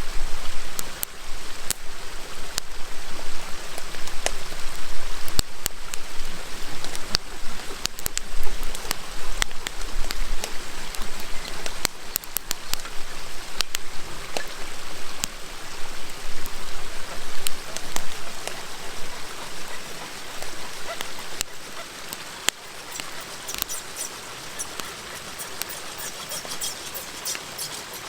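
Wood fire crackling, with many sharp pops and snaps over the steady rush of a river, and a flurry of fine, quick crackles near the end.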